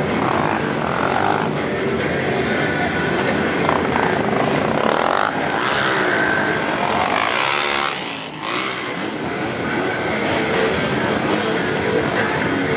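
Many dirt bike engines running at once, individual bikes revving up and down over the crowd of idling machines.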